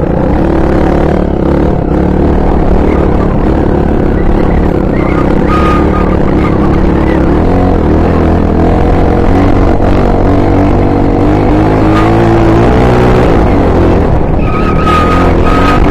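Honda XR 250 Tornado's single-cylinder four-stroke engine running under way on a dirt bike, its pitch rising and falling as the throttle changes, with a dip and climb in revs about twelve seconds in.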